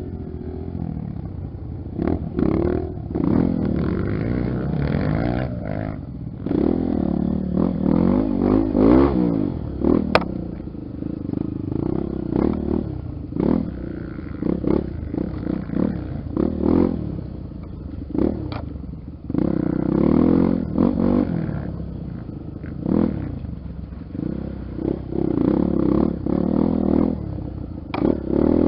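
Honda XR 250 Tornado's single-cylinder four-stroke engine revving up and down on a dirt trail, its pitch rising and falling repeatedly with the throttle, with clattering knocks from the bike over rough ground.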